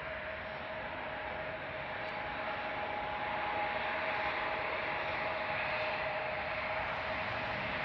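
Cessna 680A Citation business jet arriving, its twin turbofans giving a steady whine over a rushing hiss that grows steadily louder as it comes in.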